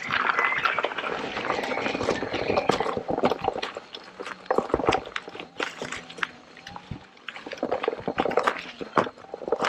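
Electric unicycle's tyre rolling through wet mud on a trail, squelching and sloshing, with many small clicks and snaps from twigs and stones under the wheel.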